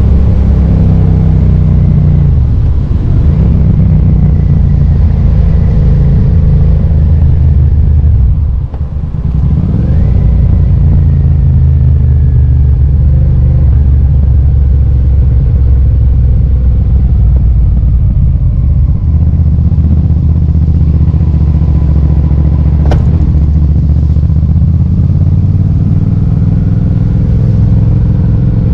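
2005 Suzuki SV650S's 645 cc 90-degree V-twin engine running on the move. The engine drops in level briefly about nine seconds in, then rises in pitch again. There is a single sharp click about 23 seconds in.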